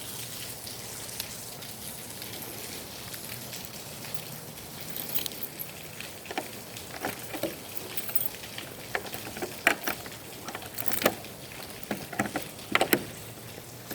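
Steady rain hiss with large raindrops tapping sharply and irregularly close by, the taps sparse at first and coming thicker through the second half.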